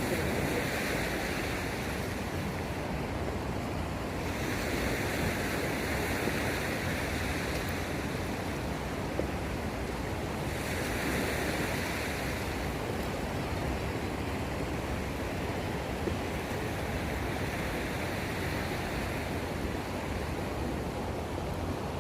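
Sea waves washing against the shore, a wash surging and fading about every six seconds, over a steady rush of wind.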